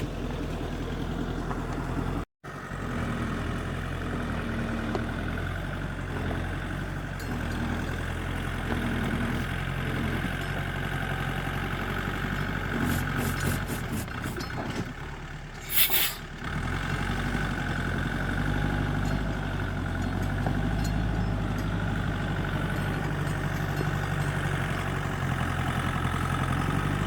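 Tractor engine running steadily while the loaded tractor is reversed up a slope, with a brief loud burst of noise a little past halfway.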